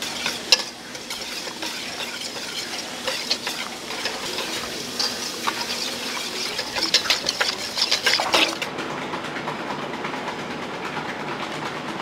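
Kitchen work noise: a run of light clicks and clatter, busiest for a couple of seconds past the middle, over a steady hiss.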